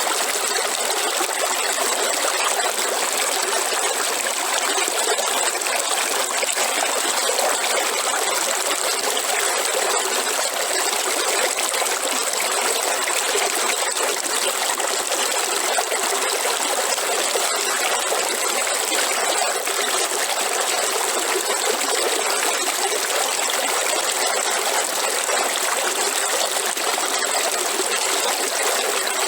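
River water flowing steadily, an even, unchanging rush and trickle, with a thin steady high-pitched hiss running over it.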